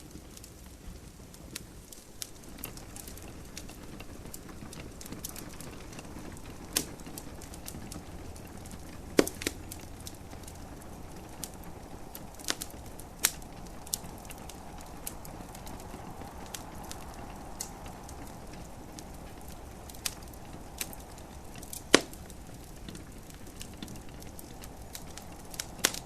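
Wood fire in a fireplace crackling, with irregular sharp pops over a steady low hiss; the loudest pops come about nine seconds in and again near 22 seconds.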